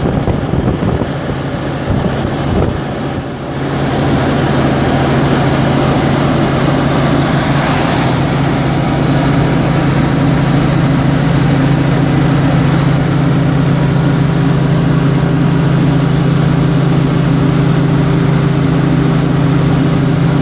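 A car driving on the highway, heard from inside the cabin: steady road and engine noise with a low hum that becomes louder and steadier about three and a half seconds in.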